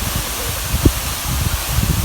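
Waterfall rushing steadily, a constant loud hiss of falling water with an uneven low rumble beneath.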